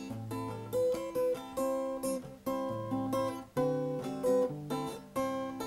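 Acoustic guitar playing chords with changing bass notes: an instrumental break between the sung verses of a song.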